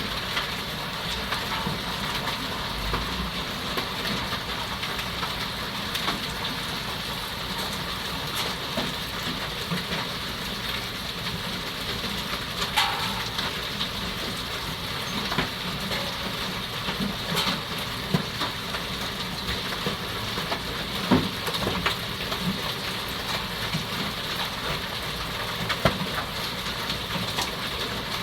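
Hailstorm pelting down: a steady hiss of falling hail and rain with scattered sharper knocks of hailstones striking hard surfaces, a couple of them louder about halfway through.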